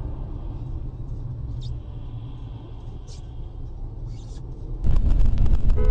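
Steady low rumble of a car driving, heard from inside the vehicle. About five seconds in it abruptly gets louder, with rapid crackling.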